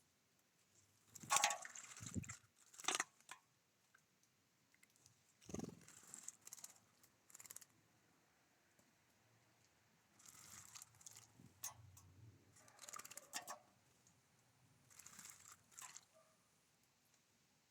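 Birds at a feeder: scattered short crunching and rustling noises with a few sharp clicks, typical of birds pecking and cracking seeds.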